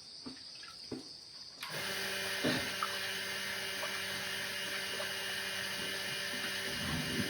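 An electric motor-driven machine switches on about a second and a half in and runs steadily with a constant hum and hiss. A few faint knocks come before it.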